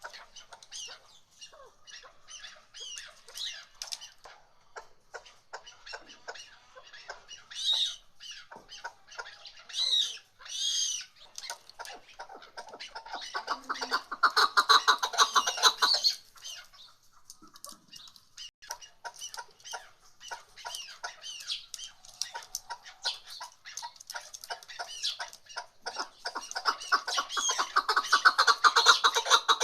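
Chukar partridges calling: long series of quick clucking notes, swelling into loud, fast rallies about halfway through and again in the last few seconds.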